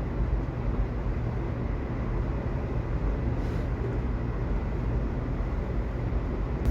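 Subway train running: a steady, even rumble of wheels and motors on the rails, heaviest in the low end, with no stops or announcements.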